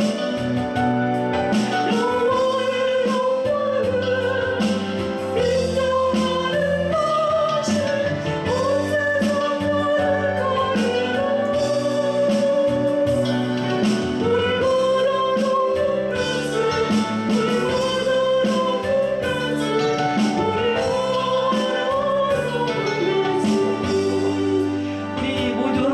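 A woman singing a Korean gospel praise song in long, held phrases with vibrato, over steady instrumental accompaniment.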